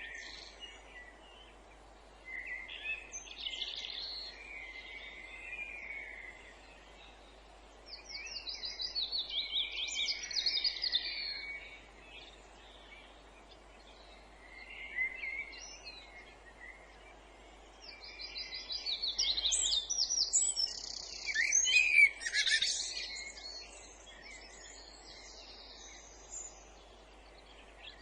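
Songbirds singing in separate phrases of a few seconds each, made of quick, rapidly repeated high notes, with short quieter gaps between them; the singing is densest and loudest in the last third. A faint steady hiss lies underneath.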